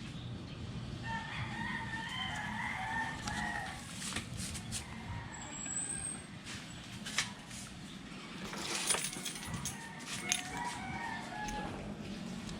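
Chickens clucking in two spells, with a few sharp clicks and a low hum that fades out about eight seconds in.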